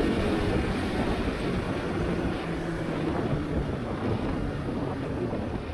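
Wind rushing over the microphone while riding, with the Aprilia RSV4 1100 Factory's V4 engine running steadily underneath at a near-constant pitch.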